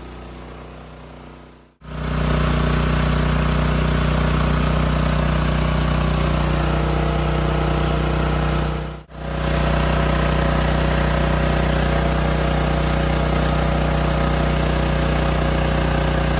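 Kama 12 hp diesel engine running a small rice mill at a steady speed, a low even drone with the mill's hiss over it. The sound is quieter at first, drops out briefly about two seconds in and again about nine seconds in, and comes back at the same steady level each time.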